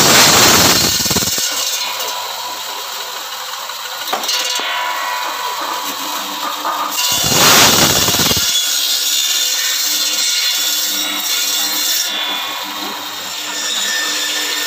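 Electric bone-cutting saw with a carbide-tipped circular blade running steadily and cutting through cow bone: two loud cuts, one at the start lasting about a second and a half and another about seven seconds in.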